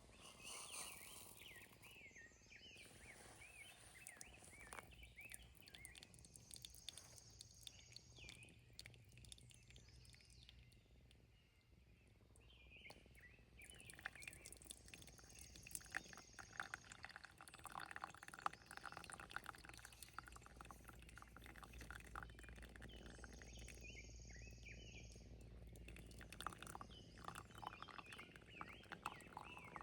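Faint birdsong: quick, repeated chirps with a higher trill coming back three times, over a low outdoor background.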